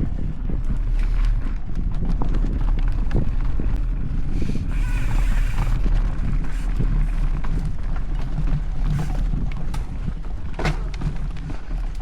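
Mountain bike rolling over a dirt trail: a steady low rumble with frequent rattling clicks and knocks from the bike over bumps.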